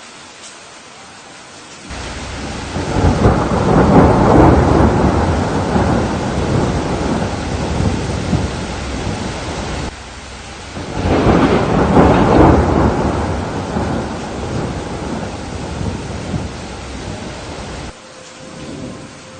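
Steady rain hiss with two long rolls of thunder. The first starts suddenly about two seconds in and fades over several seconds. The second swells right after it and cuts off abruptly near the end.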